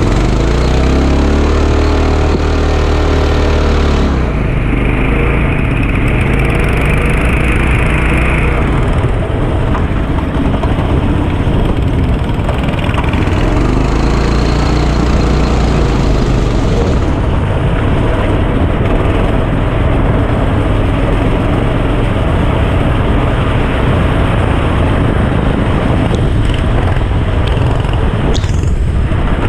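Kart engine running hard, its pitch climbing and falling again several times as it speeds up and slows down, under a constant rushing noise.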